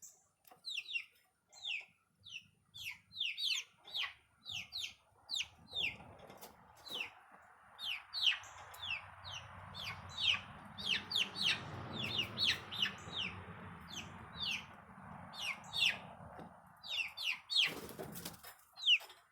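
Young chickens peeping over and over: short, high chirps that slide down in pitch, at times several close together.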